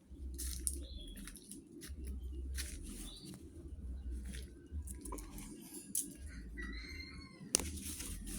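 Hornbill sounds: scattered sharp clicks and crunching, a few short high chirps, and one longer call with a slight rise and fall about six and a half seconds in, over a low rumble.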